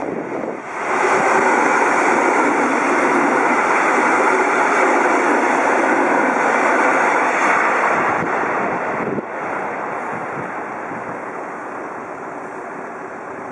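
Electric multiple unit passing over the level crossing. The train noise rises sharply about a second in, holds steady for about seven seconds, and drops away after the last car clears.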